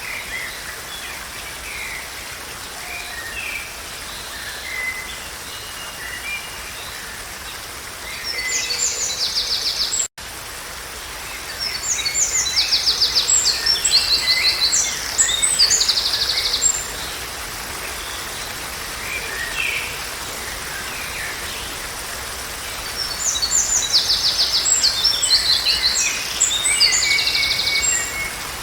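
Songbirds singing in three loud spells of fast, repeated trilled phrases over a steady, even background hiss. The sound drops out for an instant about ten seconds in.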